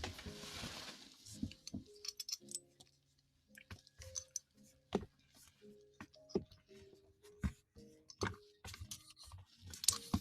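Irregular soft clicks and taps close to the microphone, typical ASMR trigger sounds, over quiet background music of held notes changing about every half second.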